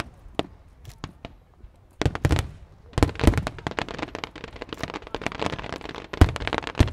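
Fireworks going off: a few scattered bangs, then from about two seconds in a dense run of crackling pops broken by several heavy booms.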